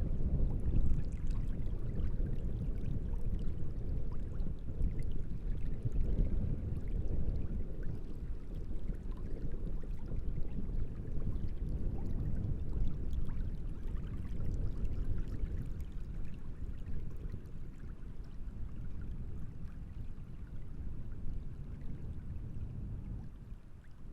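Wind-driven waves on a large reservoir lapping and washing against the shore, with gusts of wind. The sound is a steady low wash that eases slightly toward the end.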